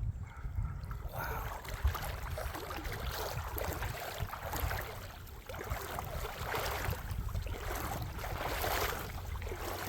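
Creek water running and gurgling over rocks, a rushing that swells and eases, with wind rumbling on the microphone.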